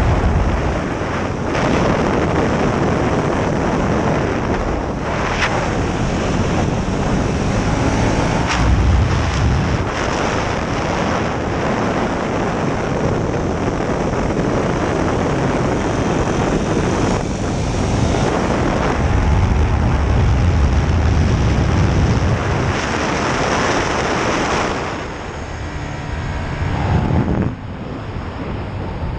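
Onboard sound of a KTM 1290 Super Duke R's V-twin at speed on track, with wind rushing loudly over the microphone and the engine note rising and falling as the bike accelerates and brakes. The level drops a little near the end.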